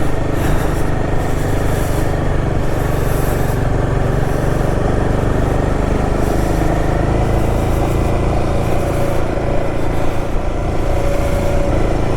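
Royal Enfield Himalayan 450's single-cylinder engine running steadily under way, with a constant rush of riding wind over the microphone.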